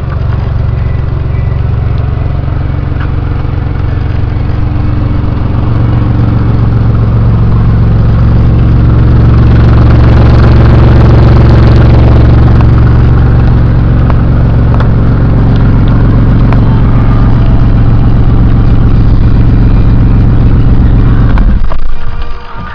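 Porsche Boxster S 3.2-litre M96/21 flat-six engine running steadily. It grows louder for a few seconds around the middle, then holds steady, and cuts off near the end.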